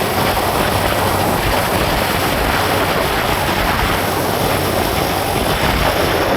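Steady noise of a moving vehicle, with wind rushing over the microphone.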